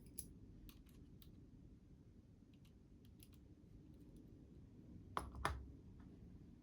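Faint scattered clicks and taps of small model-locomotive parts being handled and fitted, with a louder cluster of clicks about five seconds in.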